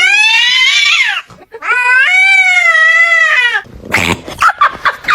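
Cat giving two long, drawn-out meows, the second longer and wavering in pitch, followed by a second and a half of short, choppy sounds.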